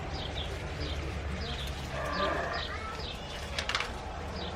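A sheep bleats once, a held call of under a second about two seconds in, over repeated short high chirps.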